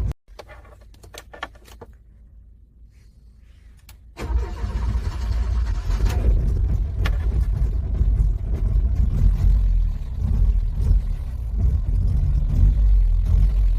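Car engine cranking in freezing cold, struggling to start. It stops abruptly, leaving a quieter stretch with a few faint clicks. About four seconds in, the low, uneven cranking starts again and carries on.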